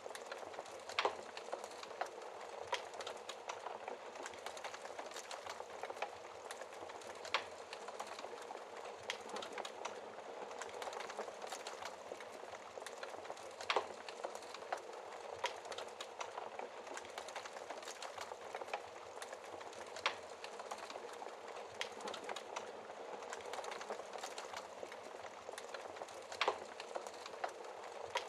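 Wood fire burning in a fireplace: a steady hiss and soft flutter of flames, with constant small crackles and a sharp pop every few seconds.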